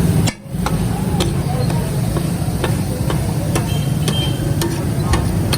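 Busy street-food stall ambience: a steady low rumble, background voices and scattered sharp knocks. The sound briefly drops out less than half a second in.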